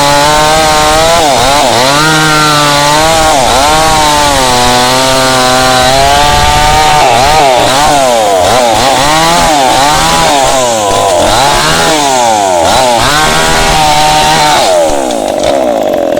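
Two-stroke Tanika MS 5800 chainsaw cutting into candlenut wood, its engine pitch dipping and recovering again and again as the chain loads up in the cut. About a second before the end it eases off to a steadier, lower note.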